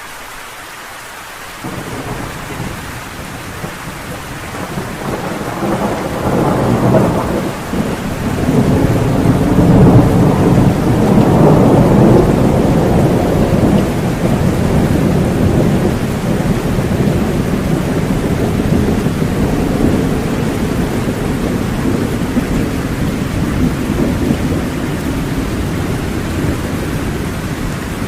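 Steady rain with a long roll of thunder: the rumble comes in suddenly a couple of seconds in, builds to its loudest near the middle, then slowly dies away under the rain.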